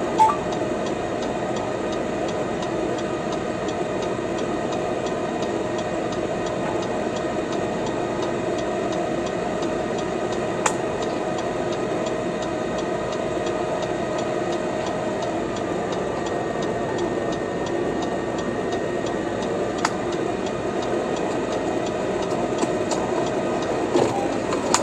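Steady hum of a stationary car's engine idling, heard from inside the cabin, with a few single sharp taps: one near the start, one about halfway through and one a few seconds later.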